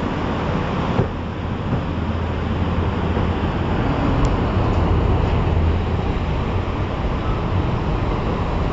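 EP07 electric locomotive and its passenger coaches rolling slowly past: a steady rumble with a low hum, and a single click about a second in.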